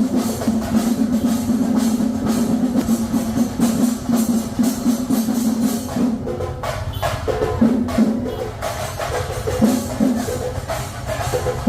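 Chenda drums beating fast and densely, over a steady low tone that breaks up about halfway through.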